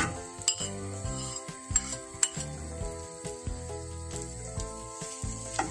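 Mashed potato sizzling in a hot pan with fried onions, with sharp knocks and scrapes of a utensil and wooden spatula against the pan and plate. Background music plays throughout.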